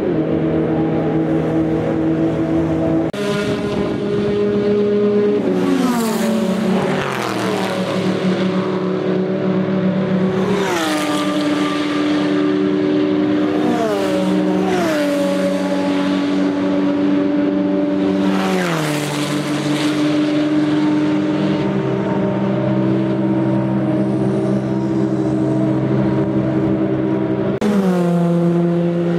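Open-exhaust GT endurance race cars passing one after another, engines running hard. Each car's note drops in pitch as it goes by, about half a dozen times, with engine sound never letting up in between.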